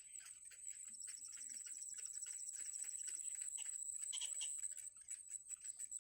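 Nestling birds cheeping: a fast run of high begging notes for about two seconds, then a lower call about four seconds in. A steady high-pitched whine and many small ticks run underneath.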